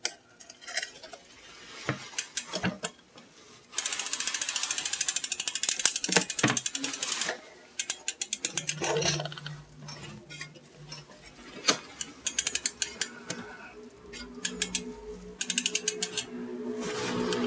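Road bike drivetrain worked by hand in a repair stand: rapid ratchet clicking of the rear freehub as the cranks turn and stop, with scattered clicks and knocks from the chain and derailleurs as the gears are shifted to check a front derailleur adjustment.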